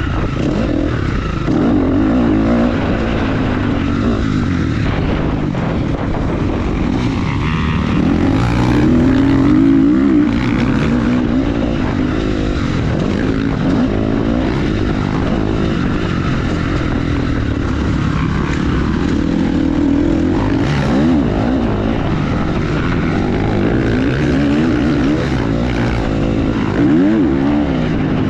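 Motorcycle engine running under way, its pitch rising and falling again and again as the throttle is opened and closed.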